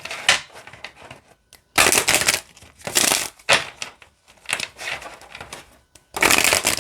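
A deck of oracle cards being shuffled by hand: a run of papery rustling, riffling bursts about once a second as the cards slide easily against each other.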